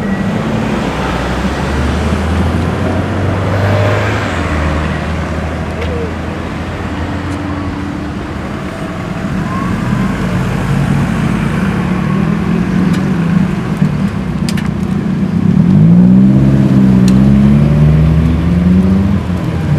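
Classic car engines running as cars drive slowly past. About three-quarters of the way through, one car revs up and passes louder, its pitch climbing.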